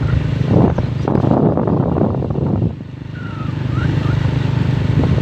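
Motorcycle engine running steadily during a ride, with a rush of wind and road noise from about half a second in that drops away suddenly just before the three-second mark.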